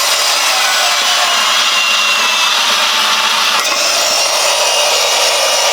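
A power tool running steadily on metal exhaust tubing, a loud even hiss-like grinding noise that starts and stops abruptly.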